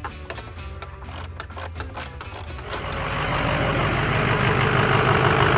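Ford 6.0 Power Stroke diesel engine cranking with a quick run of clicks, catching about three seconds in and then running steadily and louder.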